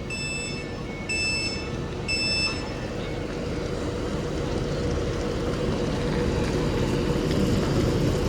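Three electronic warning beeps about a second apart over a faster two-note chirp. They stop about three seconds in, leaving the steady rumble and hum of an electric train at the platform, slowly growing louder.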